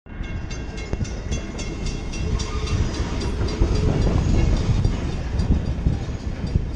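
Passenger train rolling into a rail yard: a steady low rumble, with a rapid, regular ticking over the first three seconds or so.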